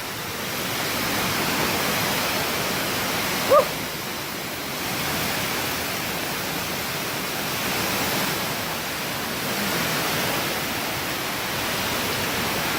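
Steady rushing noise that swells and eases in slow waves, with one short 'woo' from a man about three and a half seconds in.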